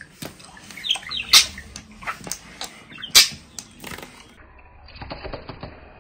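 Pet parakeet making short sharp chirps and squawks, the two loudest about a second and a half and about three seconds in, with softer chatter between them.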